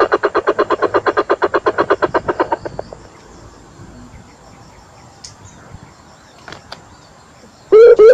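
A rapid train of croaking calls, about ten a second, that stops under three seconds in. Near the end, a loud series of low coucal (bubut) hoots begins, each note falling in pitch, as played on a bird-luring recording.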